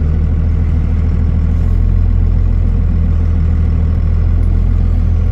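Truck engine running steadily at low speed, a deep even hum.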